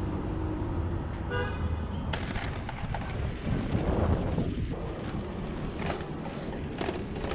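City street traffic with a steady low rumble, and a short car horn toot about a second and a half in.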